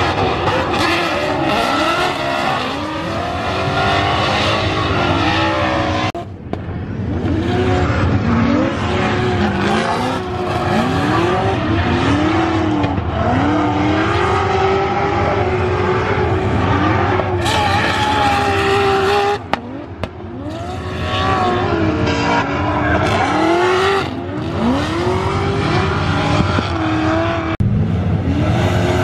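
Drift cars at full throttle on track, their engines revving up and down again and again as the drivers work the throttle, with tyre squeal. The sound dips briefly about six seconds in and again near twenty seconds.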